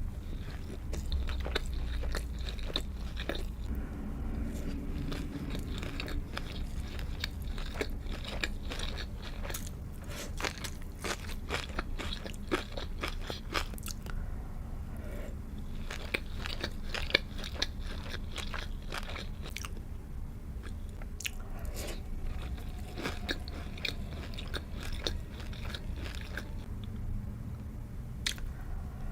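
A person biting and chewing sushi and sashimi close to the microphone: a dense run of quick mouth clicks and crunches that thins out in a few short lulls, with one sharp click about halfway through.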